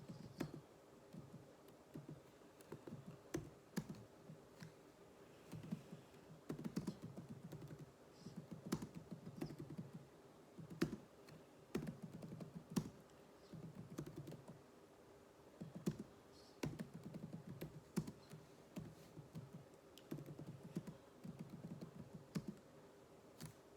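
Typing on a computer keyboard during touch-typing drills: quick runs of keystrokes broken by short pauses.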